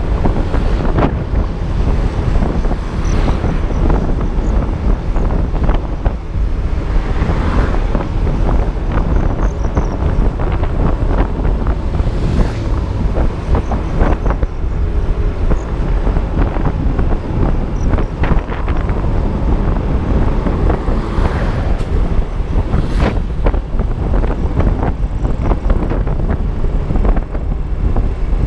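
Heavy wind rush buffeting an action camera's microphone on a moving Yamaha Aerox V2 scooter, with the scooter's single-cylinder engine and road noise underneath.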